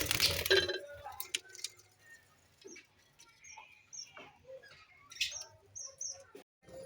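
Lovebirds giving scattered short, high chirps and squeaks, with a loud rustling burst right at the start.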